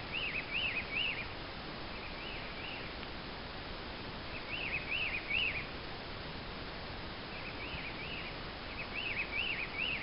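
A songbird singing short phrases of three or four quick rising-and-falling notes, about five phrases repeated every couple of seconds, over a steady background hiss.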